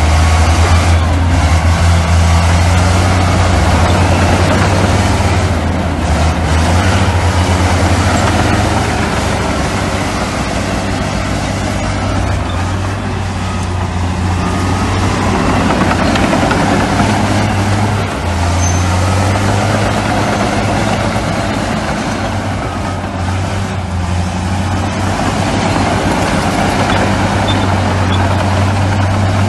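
Heavy diesel earthmoving machinery working, bulldozer and dump truck engines: a deep, steady engine drone with dense mechanical noise over it, dipping briefly about two-thirds of the way through.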